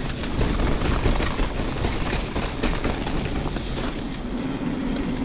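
Canyon Spectral 29 full-suspension mountain bike rolling fast down a rough dirt trail: tyre noise and a steady clatter of chain and frame over roots and bumps, with wind on the microphone. A low steady hum joins in about four seconds in.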